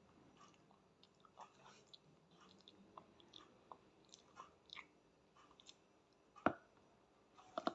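A small child chewing and eating pasta, with soft wet mouth clicks and smacks. A single sharper knock sounds about six and a half seconds in, and a quick cluster of clicks comes near the end.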